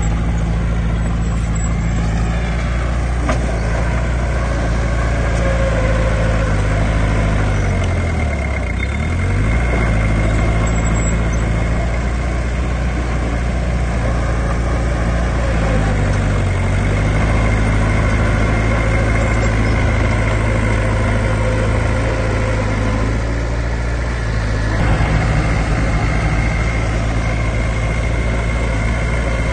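Heavy diesel construction machinery running steadily, the engine note wavering briefly twice.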